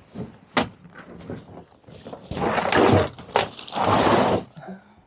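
Handling noises as gear is loaded at a pickup truck: two sharp clicks and a couple of longer rustling, scraping bursts.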